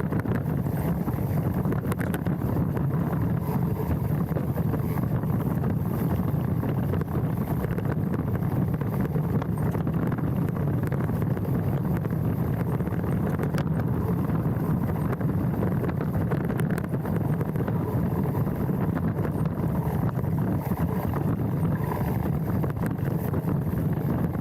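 Steady rumble and wind buffeting of a mountain bike rolling down a dirt trail, heard through a handlebar-mounted action camera, with small clicks and rattles throughout.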